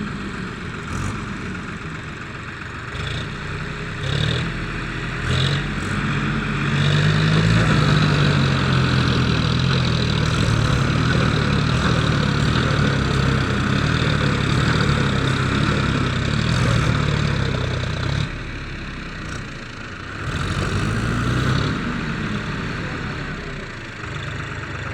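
Tractor diesel engine revving hard under load, working to pull through mud. Engine speed climbs about five seconds in, holds high for about twelve seconds, drops suddenly, then rises briefly once more.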